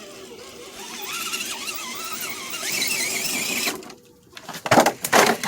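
Redcat Gen7 RC rock crawler's electric motor and drivetrain whining under throttle as it climbs, the pitch wavering as the throttle is worked. Near the end a few sharp knocks, as of the crawler striking rock after failing the climb.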